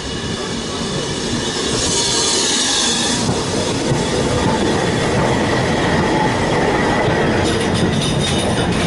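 Railway carriages rolling along the track past a station platform, growing louder over the first few seconds, with wheel squeal as thin steady tones. A brief hiss comes about two seconds in.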